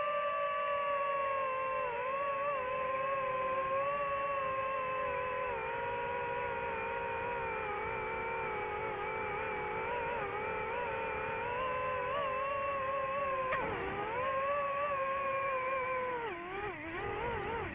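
Boat motor running at a steady speed with a high, even whine; the pitch dips briefly about three-quarters of the way through and wavers down near the end.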